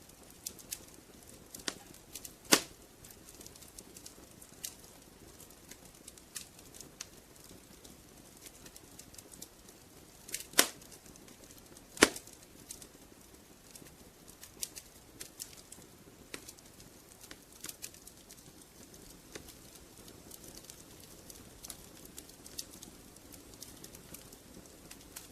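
Wood fire crackling in a fireplace: irregular small pops and snaps over a soft steady hiss of the flames, with three sharper, louder pops, one about two and a half seconds in and two close together around the middle.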